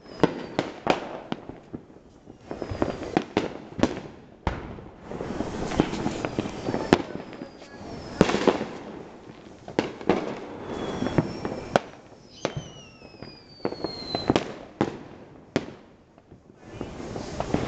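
Fireworks going off in quick succession: a dense run of sharp bangs with crackling between them, and a few falling whistles about two-thirds of the way through.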